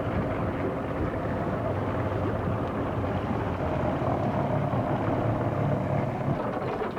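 Motorboat engine running steadily, a low even hum with a higher steady tone over it.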